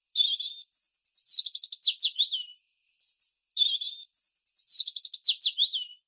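A bird singing the same short phrase twice, about three seconds apart. Each phrase opens with very high chirps, drops to a lower warble, then runs quickly down through a string of falling notes.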